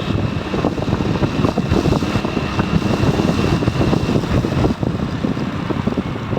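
Motorcycle running on the move, with wind buffeting the microphone.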